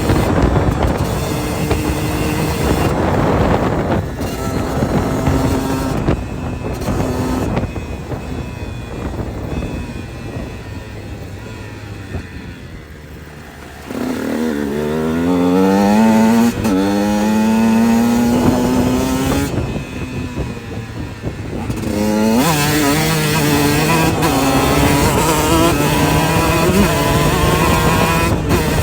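KTM 125 SX single-cylinder two-stroke motocross engine, heard on board, revving hard and rising in pitch through the gears with breaks at each shift. It backs off to a quieter lull around the middle, then pulls hard again twice, with steady high revs near the end.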